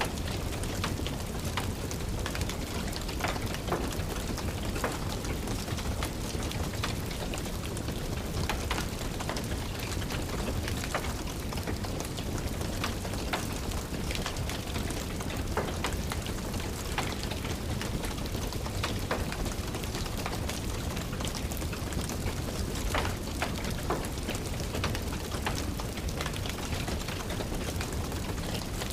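Steady rain over a low rumble, with frequent sharp crackles from a wood fire scattered through it.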